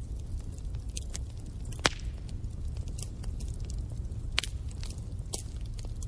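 Wood fire in a fireplace crackling, with irregular snaps and pops over a low steady rumble of the flames; the sharpest pop comes about two seconds in.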